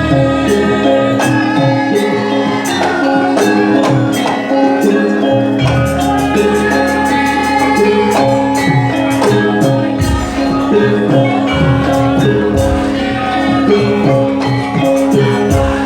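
Javanese gamelan music of the kind that accompanies a jathilan horse dance: pitched metal notes ringing over held tones, with regular sharp percussion strokes and a low drum pulse.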